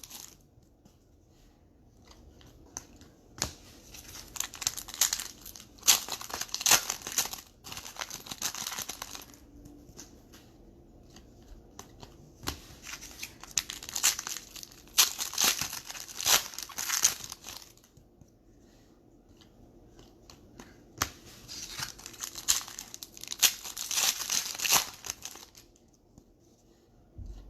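Foil trading-card packs being torn open and crinkled by hand, in three bouts of crackling with quiet handling in between.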